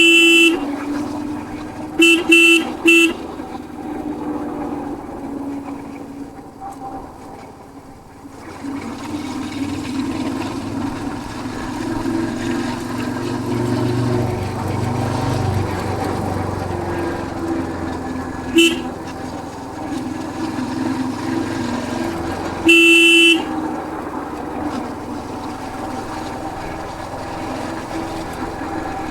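Single-cylinder engine of a Royal Enfield Hunter 350 motorcycle running on the ride, with a steady drone that rises and falls with the throttle. A horn toots over it: once at the start, three quick beeps about two seconds in, a short beep past the middle and a longer blast near the end.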